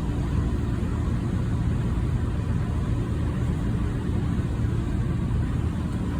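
Inside the car of a JR 185 series electric train under way: a steady low rumble of running noise from wheels and running gear, with no change or distinct event.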